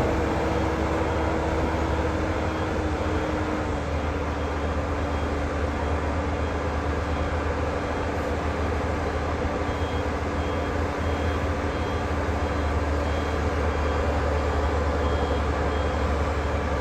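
Diesel engine of a heavy earthmoving machine running steadily while its reversing alarm beeps at a regular rate.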